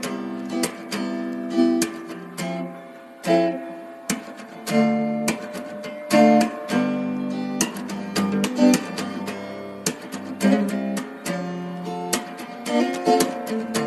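Background music played on acoustic guitar, with plucked and strummed chords sounding at a steady pace.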